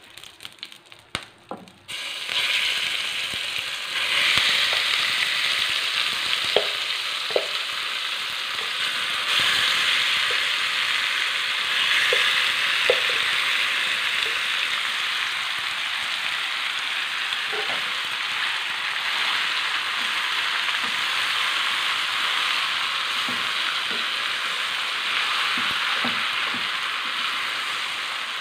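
Masala-marinated chicken sizzling in hot coconut oil in a frying pan. A few faint crackles come first, then the sizzle starts suddenly about two seconds in as the chicken goes in, and runs on steadily while it is stirred.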